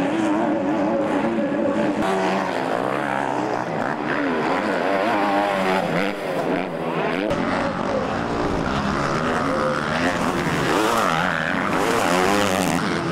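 Several motocross bikes racing, their engines revving up and down with overlapping pitches that rise and fall as the throttles open and close.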